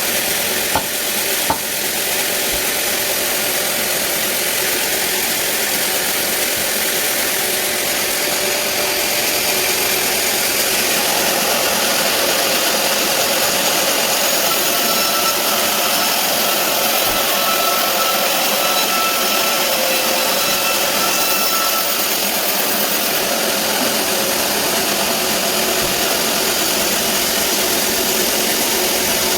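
Sawmill band saw running steadily, with a constant high hiss. Two short knocks about a second in.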